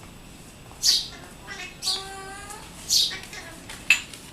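Alexandrine parakeet giving short, sharp, high-pitched squawks, four of them about a second apart, with a brief pitched voice-like call in between.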